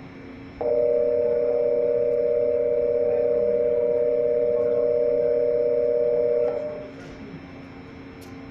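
Station platform departure signal: a steady two-note electronic tone that starts just under a second in, sounds for about six seconds, then stops.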